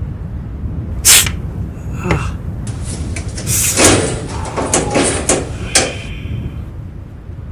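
A series of sharp bangs and knocks over a steady low rumble: a loud crack about a second in, another hit near two seconds, then a cluster of bangs and clattering from about three to six seconds.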